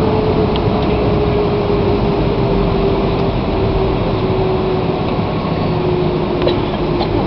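Airliner cabin noise in flight: a steady rush of jet engine and airflow noise with one humming engine tone that slowly sinks a little in pitch.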